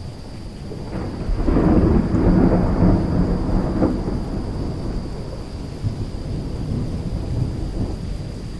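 Thunder over steady rain: a crack about a second in swells into a loud, low rumble for about three seconds, then dies away into the rain.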